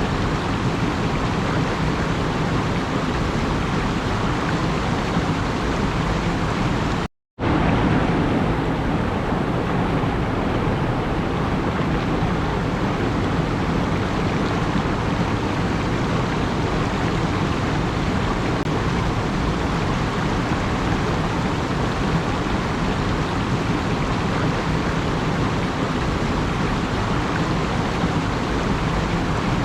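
Steady rushing noise with no pitch and an even level, cutting out completely for a moment about seven seconds in.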